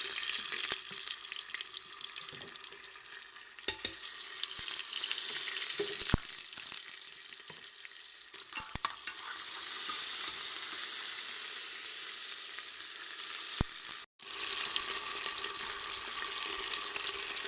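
Onions and spices sizzling in hot desi ghee in a pressure cooker pot, with a spoon stirring and clicking against the metal. The sizzle cuts out briefly about 14 seconds in.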